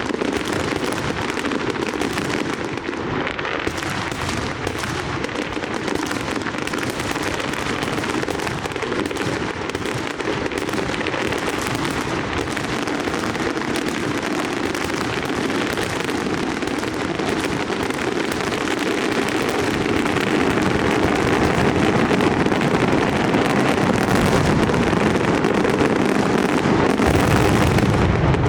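Large aerial fireworks display: an unbroken barrage of shell bursts and crackling, growing a little louder in the last third.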